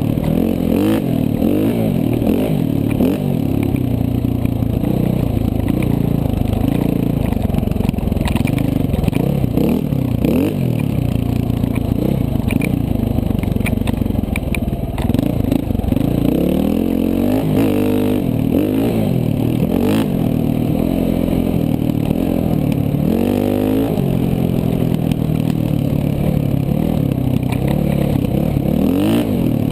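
KTM 450 dual-sport dirt bike's single-cylinder four-stroke engine revving up and down as it is ridden over a trail, the pitch climbing and dropping again and again, with scattered knocks and clatter from the bike over rough ground.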